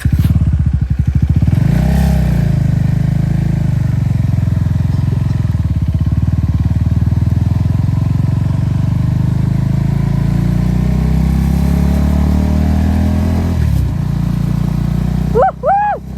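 Motorcycle engine running under way, its note rising about two seconds in and dipping briefly near the end, followed by two short, loud, arching notes.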